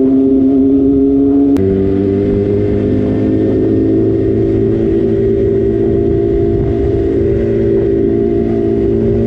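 Sport motorcycle engine running steadily at high revs. The engine note changes abruptly about a second and a half in, then holds steady with a slight rise.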